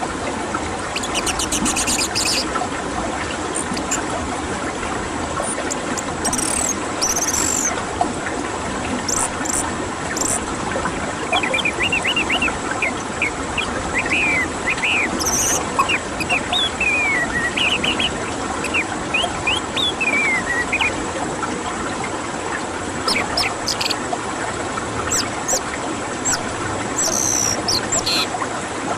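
Orange-headed thrush (anis merah) song played for bird therapy: a run of quick, varied whistled notes through the middle, with scattered high chirps, over a steady background hiss.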